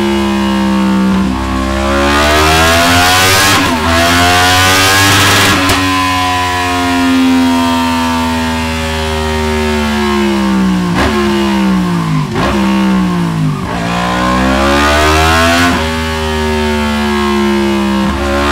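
Yamaha MT-10's crossplane inline-four engine revving through a Delkevic DS70 carbon fibre slip-on silencer. The pitch climbs over the first few seconds, falls back, dips sharply several times around the middle, then rises and holds high near the end.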